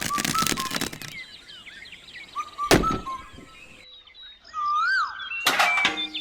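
Small birds chirping in quick, high calls, with sharp knocks and clatter in the first second, once near the three-second mark and again around five and a half seconds.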